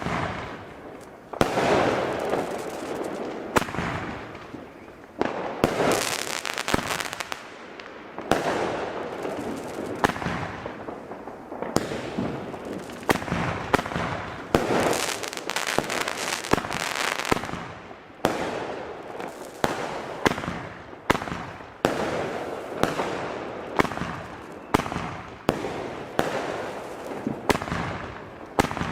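Consumer firework battery firing a long series of shots, about one a second and quickening in the second half, each shot followed by the hissing crackle of its burst.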